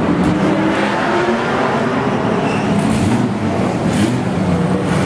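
Historic Porsche 911 race car's air-cooled flat-six engine running in the pits, its pitch wavering up and down with light throttle.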